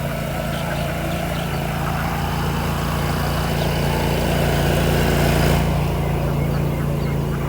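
A steady low engine hum, unchanging in pitch, like a motor running at idle.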